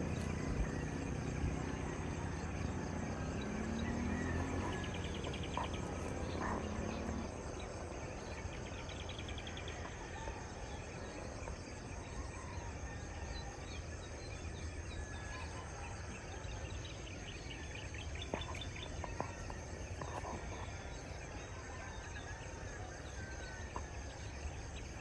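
Rural dawn chorus: birds chirping in short repeated trills over a steady high drone of insects.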